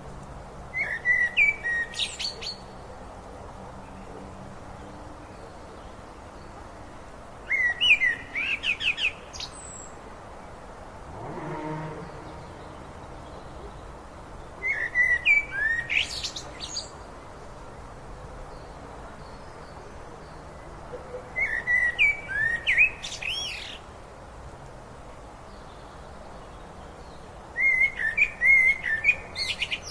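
A songbird singing the same short phrase of quick sweeping whistles and trills five times, about every six to seven seconds, over a steady low rush of river water.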